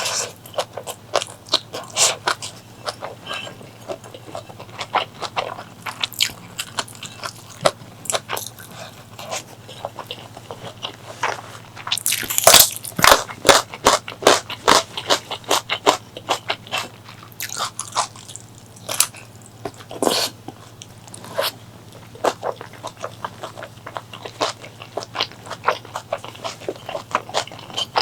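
Close-miked eating: a person chewing and biting food, with many sharp crunchy clicks, thickest about halfway through. A low steady hum runs underneath.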